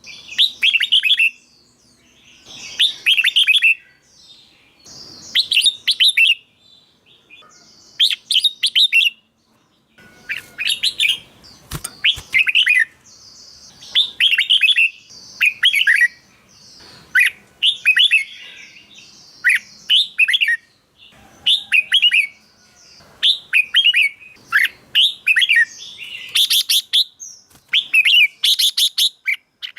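Red-whiskered bulbul singing, a short loud whistled phrase repeated every second or two with brief pauses between.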